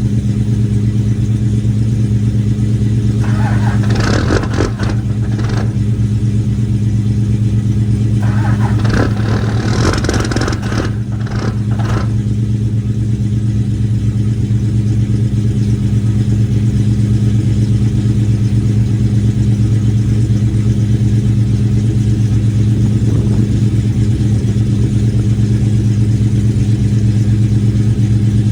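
Old car engine idling steadily in sub-zero cold after a cold start, with a few brief louder noisy bursts during the first twelve seconds.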